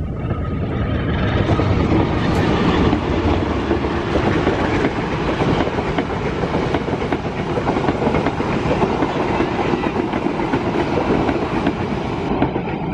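Passenger train hauled by a diesel locomotive passing close by: the engine's drone, then the steady rumble of the coaches with a rapid run of wheel clicks on the track. It grows louder over the first two seconds.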